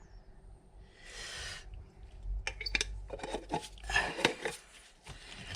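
Clicks, taps and rubbing of paint-mixing containers and tools being handled while base coat is mixed, after a brief hiss about a second in.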